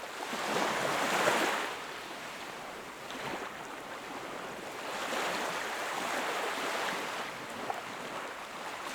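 Sea waves washing onto the shore. A louder wash comes about a second in, and a longer, gentler swell of surf follows in the second half.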